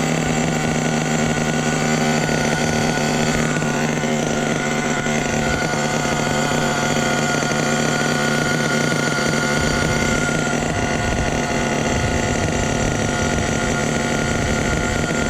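Small nitro glow engine of an RC truck idling steadily with a high, even buzz; it is running rich.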